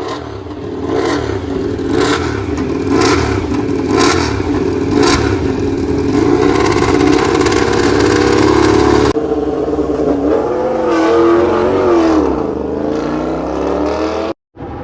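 MotoGP race motorcycle engine running loud and steady, with sharp ticks about once a second early on; the sound changes abruptly about nine seconds in, after which the revs drop and climb again.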